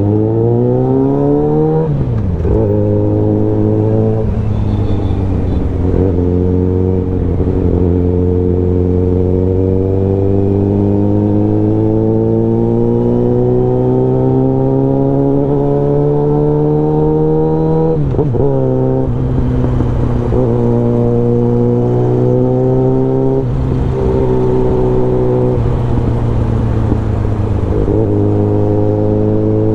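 Suzuki Bandit 650N inline-four with a full aftermarket exhaust, ridden under load. The engine note climbs fast and drops with a gear change about two seconds in, then rises slowly through a long steady pull. Brief rev changes come around the middle and again near the end.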